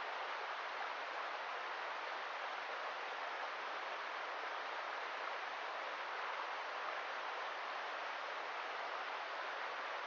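Steady rush of river water flowing, an even noise with no change in level.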